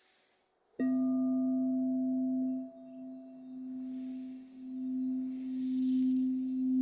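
Crystal singing bowl sounding a steady low hum with a few higher overtones. It comes in suddenly about a second in, then wavers in loudness, dipping and swelling again near the end.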